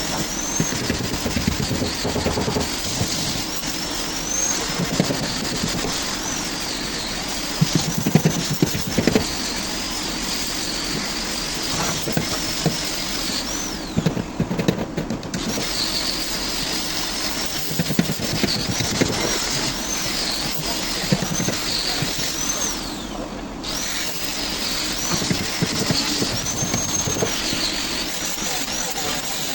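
Handheld power tool cutting into a fiberglass boat hull. Its high whine dips and recovers again and again as it bites, over a rough grinding rattle, and it briefly drops away twice.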